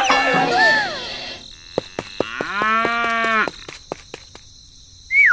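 A cow mooing once, about a second long, a couple of seconds in, with a few sharp clicks around it. Voice-like sounds come before it in the first second.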